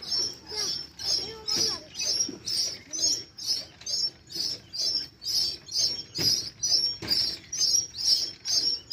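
A bird calling a short, high note over and over, about twice a second.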